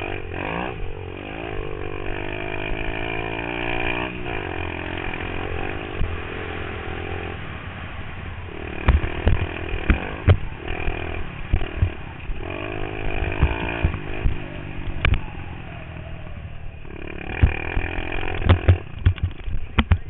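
Pit bike engine revving up and down under riding, heard from a helmet-mounted camera, with clusters of sharp knocks and thumps partway through and again near the end.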